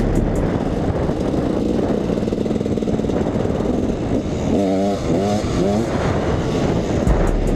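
Two-stroke dirt bike engine running while being ridden, the revs rising and falling a few times about two-thirds of the way in.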